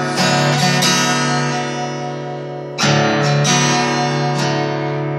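Acoustic guitar strummed: a few chords struck, ringing on between strokes, with a fresh loud strum about three seconds in.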